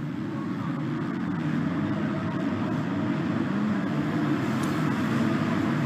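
MX2 motocross bikes (250cc four-strokes) racing on the track, engines running at high revs with the pitch wavering up and down, slowly growing louder.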